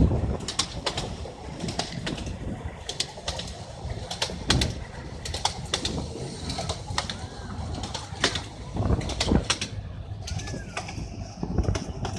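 Birds calling, a couple of short curved calls over a steady low rumble, amid many sharp clicks and knocks.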